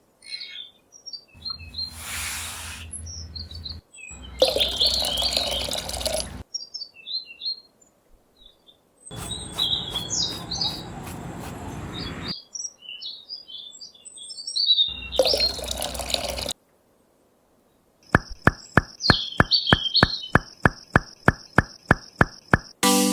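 Birds chirping in short bursts, broken into abrupt segments with silent gaps between them. In the last few seconds, evenly spaced clicks come about three a second over a steady high tone.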